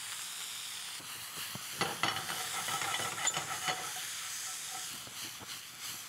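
Diced tomatoes and rehydrated chuño (freeze-dried potatoes) sizzling steadily in hot oil in a frying pan. From about two seconds in, a run of scrapes and knocks comes through as the pan is stirred and tossed.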